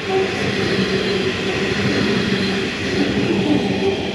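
A train passing close by: a steady, loud rumbling rush with a low, even hum under it.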